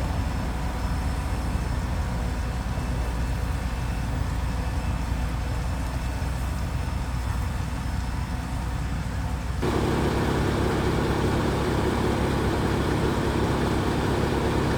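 Steady low rumble of a vehicle engine. About ten seconds in it cuts abruptly to a louder, fuller rumble.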